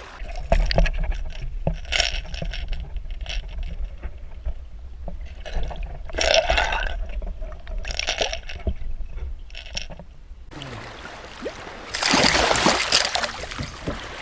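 Water splashing and sloshing beside a kayak as a hooked striped bass is brought alongside, with irregular splashes and knocks over a low rumble. A longer, louder splash comes near the end.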